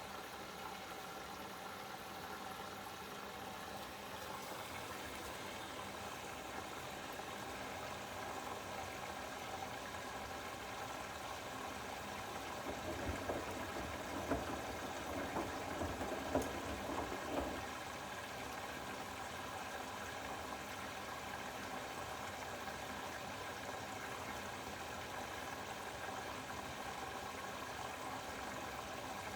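Bosch WAX32GH4GB washing machine during its detergent streak prevention stage of a 30°C dark wash: steady rushing water with a faint machine hum, growing into louder, uneven splashing between about 13 and 18 seconds in.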